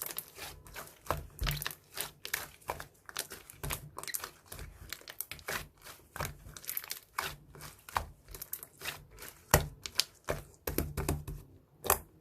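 Slime being squeezed and pressed by hand, giving an irregular run of crackling clicks and pops.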